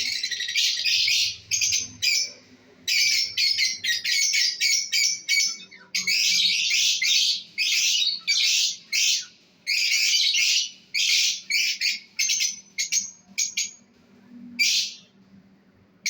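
Lovebirds calling: rapid runs of short, harsh, high-pitched chirps, coming in bursts with brief pauses between them.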